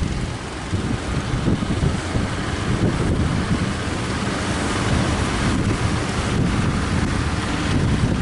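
Strong wind buffeting the microphone in gusts over the steady rush of breaking sea waves.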